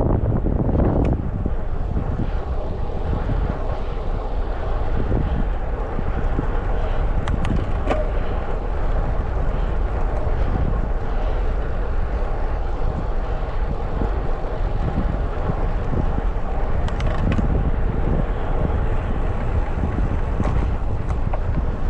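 Wind buffeting a GoPro HERO13 Black's microphone on a moving road bike, with a steady low rumble of rolling and traffic noise underneath.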